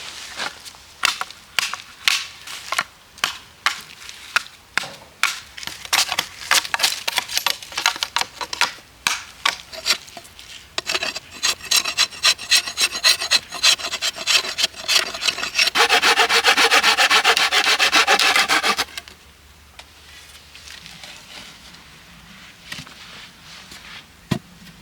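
Wood being sawn by hand in rhythmic back-and-forth strokes, about two a second at first, then faster, with a quick run of strokes that stops about nineteen seconds in.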